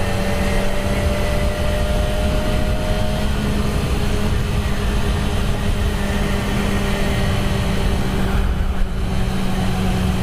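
Honda Grom's small single-cylinder engine running at a steady cruising speed on its stock exhaust, with wind rushing over the microphone.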